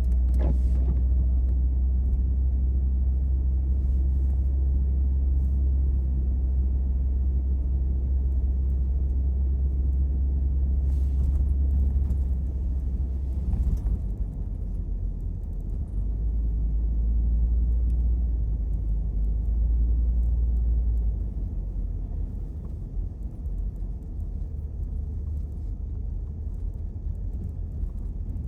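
Car driving, heard from inside: a steady low rumble of engine and tyre noise. It eases off and gets quieter about three-quarters of the way through.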